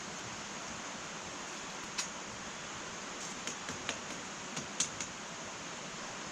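Wood fire burning in an irori hearth, crackling with sharp pops over a steady hiss. There is one pop about two seconds in, then a quick run of them around the middle.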